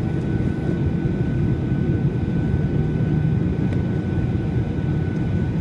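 Boeing 737-800 cabin noise on the ground after landing: a steady low rumble with a thin, steady high whine over it.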